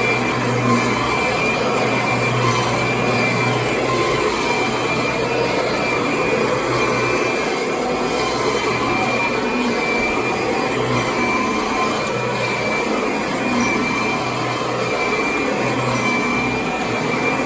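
Vacuum cleaner running steadily: a constant rush of air with a steady motor hum and whine.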